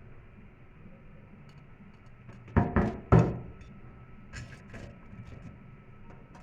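Three loud, sharp knocks in quick succession about two and a half seconds in, followed a second later by two lighter taps, over a low background hum.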